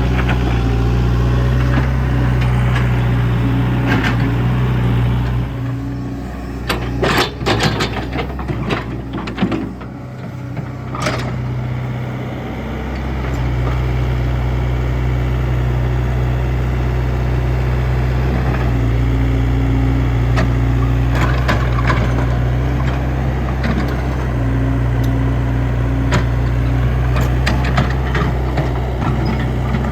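Komatsu excavator's diesel engine running steadily. About six seconds in it drops back while a run of sharp knocks and cracks sounds, then it picks up again to a steady note a few seconds later.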